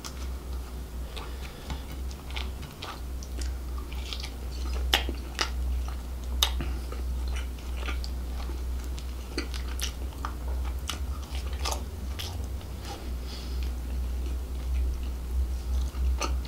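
Close-miked eating of grilled seafood: food torn apart by hand, then biting and chewing with irregular sharp, wet mouth clicks. A steady low hum runs underneath.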